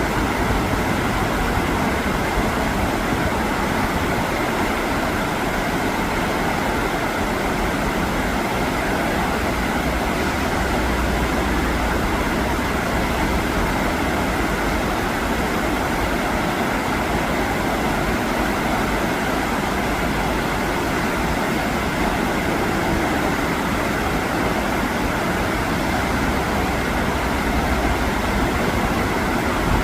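Fast river current rushing over rocks: a loud, steady, even wash of water noise.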